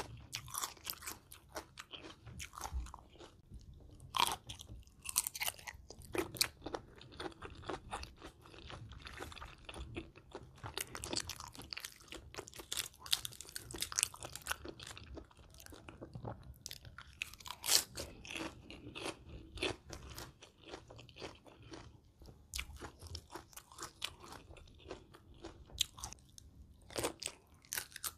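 A person chewing and biting through mouthfuls of spicy Thai shrimp salad made with raw and blanched shrimp and crisp raw vegetables. Many small crunches and wet chewing sounds come in an irregular stream.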